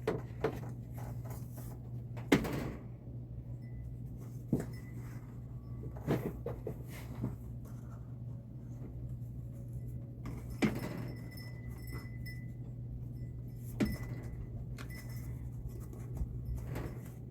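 Occasional light knocks and clicks of things being handled, about half a dozen scattered through, over a steady low hum.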